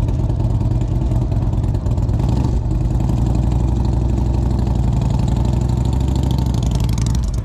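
Motorcycle engine running steadily and loud, close by, with an even pulsing note and no revving.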